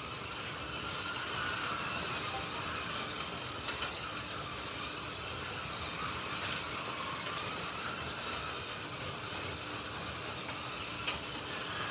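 Slot.it 1:32 slot cars lapping the track: steady electric motor whine that rises and falls as the cars are throttled through the lap, over a continuous running rumble. A single sharp click comes about eleven seconds in.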